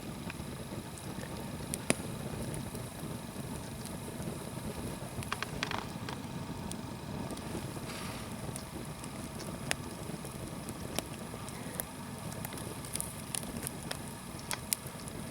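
Nodya campfire of green logs burning: scattered sharp crackles and pops over a steady low background noise.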